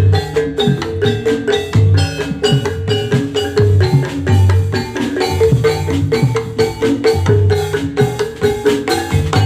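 Javanese gamelan music for jathilan, played without singing: metal-keyed instruments strike a fast, even run of ringing notes over a repeating pattern of low drum strokes.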